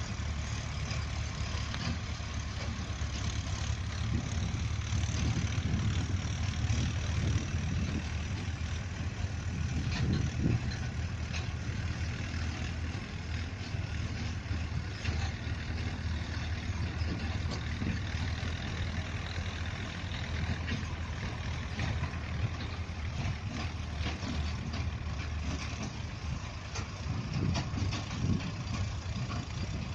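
Tractor diesel engine running steadily with a low hum, swelling slightly in loudness now and then.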